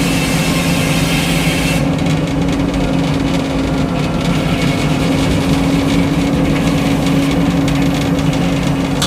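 Frick circular sawmill running. The blade cutting through a pine log makes a bright hiss that stops about two seconds in, leaving the steady hum of the mill's power unit and the freely spinning blade.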